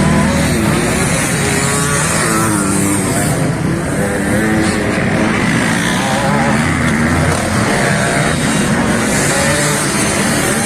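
Motocross dirt bike engine running hard, its pitch rising and falling again and again as the throttle is worked.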